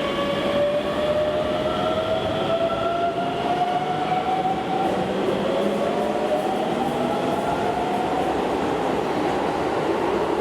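Subway train pulling out and accelerating: its traction motor whine rises in pitch in two stages over steady rolling noise.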